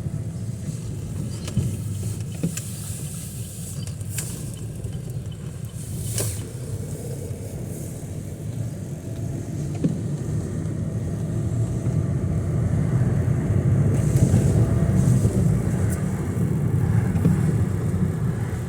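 Steady low rumble of a car in traffic on rain-soaked streets, with a few brief hissing swishes.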